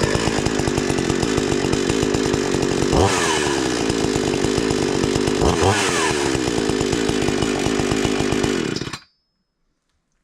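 Two-stroke chainsaw running steadily, with two short throttle blips about three and five and a half seconds in, the pitch falling back after each; the sound stops abruptly near the end.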